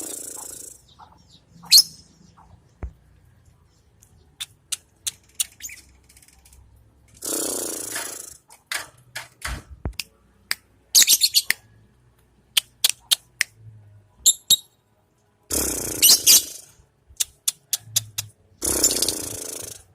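Lovebird calling in short, sharp, high chirps, with a few quick rattling runs of chirps. Several noisy bursts of about a second each break in among the calls.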